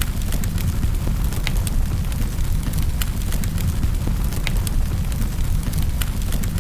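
Wood fire crackling in a fireplace: a low, steady rumble of burning with sharp pops and snaps every second or so.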